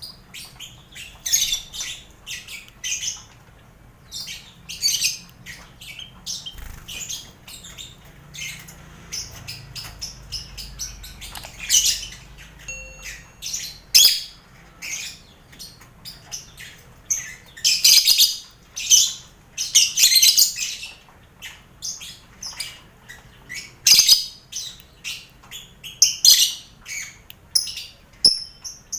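Colony aviary of lovebirds kept with finches and quail, calling: many short, shrill chirps and squawks coming irregularly, with busier stretches of several calls a second.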